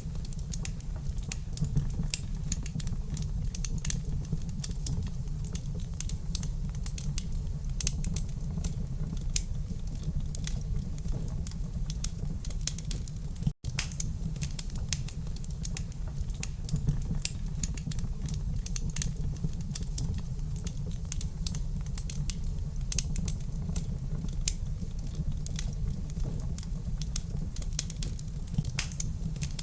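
Wood fire crackling in a fireplace: a steady low rumble of burning with many irregular sharp pops and crackles throughout. The sound cuts out for an instant about halfway through.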